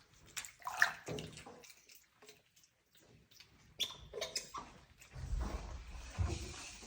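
Water in a bathtub splashing and dripping as a pet monkey moves about in its bath, in scattered small bursts with a quiet pause in the middle. A low rumbling rustle joins in near the end.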